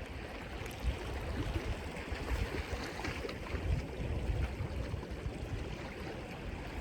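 Steady outdoor wind and water noise: wind rumbling on the phone's microphone over water washing against the rocks as the tide runs in.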